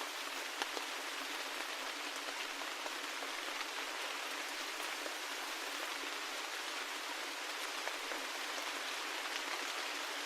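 Steady rain with the fine ticks of individual drops pattering on a surface, with no low rumble.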